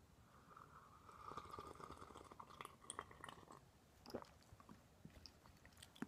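Faint close-up chewing: soft mouth clicks and wet smacks, with a faint hiss over the first few seconds.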